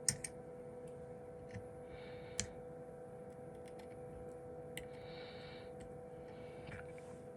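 A handful of sharp, light clicks and taps, scattered irregularly, from hand work on a phone motherboard. They sit over a steady faint hum.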